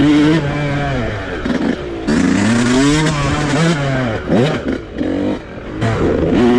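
Dirt bike engine being ridden, its pitch climbing and dropping several times as the throttle is opened and closed.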